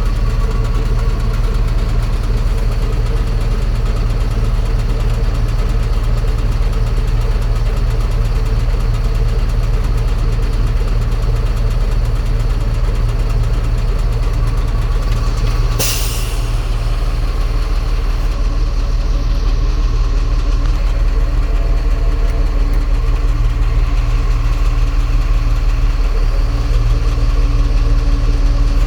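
Engine of a 5,000-gallon jet fuel truck idling steadily, with a brief hiss about halfway through.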